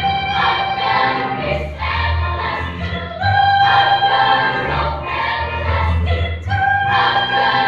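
Children's choir singing in parts, holding sustained notes that change about every second or two.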